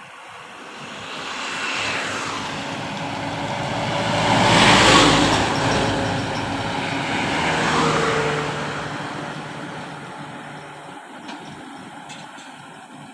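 A Tata truck passing on a highway: engine and tyre noise build up, are loudest about five seconds in with the pitch sweeping down as it goes by, swell again around eight seconds, then fade away.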